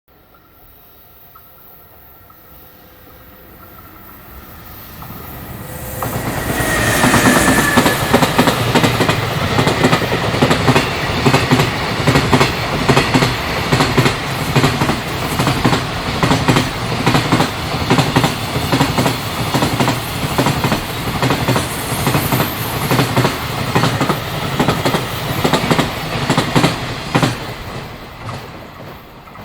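Container freight train approaching, then passing close by from about six seconds in: a long, steady run of wagons with regular clickety-clack of wheels over the rail joints, dying away near the end.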